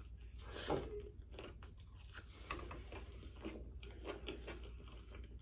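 A person chewing a bite of toast and runny fried egg: a run of small, irregular mouth clicks, a little louder just under a second in.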